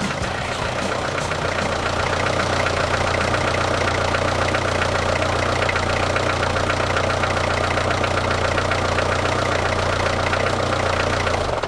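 Isuzu I-Mark's diesel engine, running on waste vegetable oil, idling steadily with a low, even clatter.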